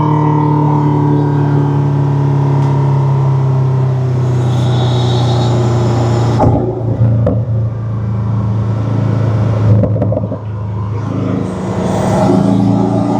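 Porsche 718 Cayman's turbocharged engine running under light throttle while driving, heard through an aftermarket turbo inlet pipe with intake and mechanical noise. A hiss rises midway, the sound drops off suddenly about halfway through as the throttle lifts, and it builds again near the end.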